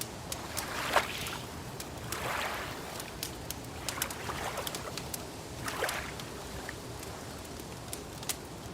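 Wood fire crackling with sharp, scattered pops over gentle lake water lapping in soft swells every second or two; the loudest pop comes about a second in.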